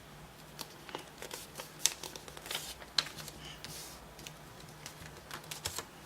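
Origami paper being folded and creased by hand: an irregular run of sharp taps and crackles with short paper rustles, the loudest snaps about two and three seconds in.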